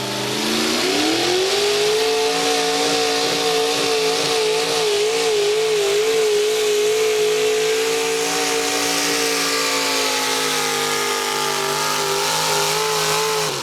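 Modified pulling tractor's engine at full throttle pulling the sled. It revs up over the first couple of seconds, then holds at high revs with a wavering pitch, and cuts off abruptly at the end.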